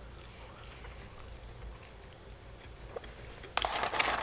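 Quiet chewing of french fries with small faint crunches, then near the end a loud rustle of the cardboard fry carton as a hand reaches in for more fries.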